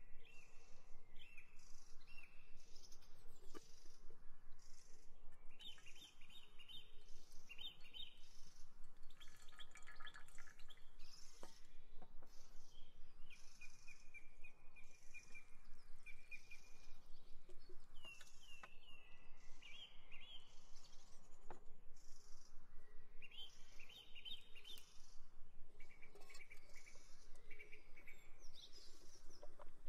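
Birds chirping, with short repeated calls and one longer drawn-out call about halfway through, over a faint steady hiss.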